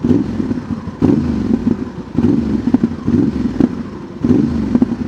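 The 2025 Honda Transalp's parallel-twin engine through a Dominator MX2 slip-on exhaust, revved in short surges about once a second, five times. Each rev falls away with popping and crackling from the exhaust, which the rider likens to fireworks.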